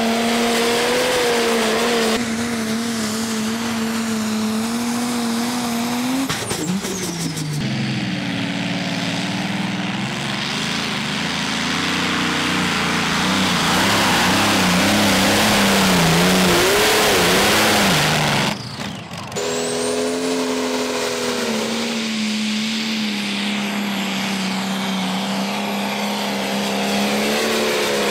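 Competition pulling tractors' engines running hard at high revs, the engine note wavering up and down under load. The sound changes abruptly a couple of times, and a louder rushing roar builds through the middle.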